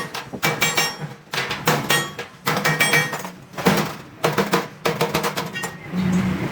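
Hammer striking stainless steel sheet: repeated metallic clangs, about two to three a second, each ringing briefly.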